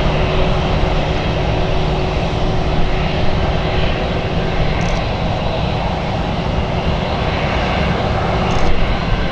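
Jet airliner engines heard from the ground: a loud, steady wash of engine noise with a thin steady tone under it that fades out near the end.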